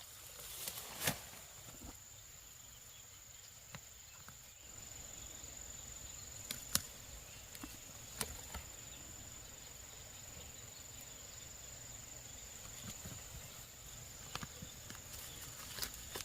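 A steady high-pitched insect drone with a few scattered sharp knocks, the loudest about a second in.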